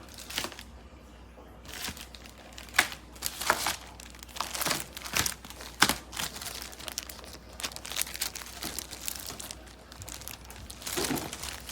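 Plastic wrapping or film crinkling and rustling in irregular bursts as it is handled, with a few sharper tearing or peeling sounds.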